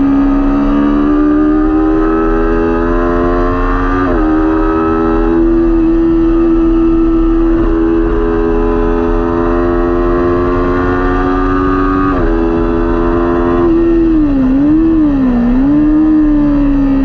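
Kawasaki Ninja 400 parallel-twin racing engine running hard at high revs, its pitch climbing slowly through the gears. There are sharp upshifts about four seconds in and about twelve seconds in. Near the end the pitch dips and recovers twice.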